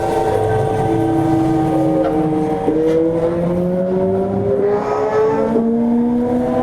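Toei 5300-series electric train's GTO-VVVF inverter and traction motors whining as the train accelerates: several tones climb slowly in pitch, jumping suddenly twice, over steady rumbling running noise from the wheels.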